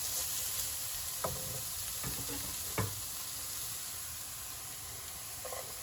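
Shredded vegetables sizzling steadily in hot oil in a pan over high heat, with two light knocks, one about a second in and another near the three-second mark.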